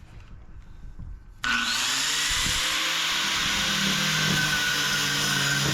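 Power cutter with an abrasive cut-off disc cutting aluminum scrap, starting abruptly about a second and a half in and then running steadily with a high whine over a noisy hiss. The disc is not the right size for the cutter and is not suited to aluminum.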